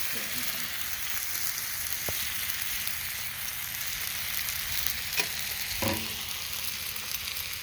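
Breakfast food frying in a pan, a steady sizzling hiss.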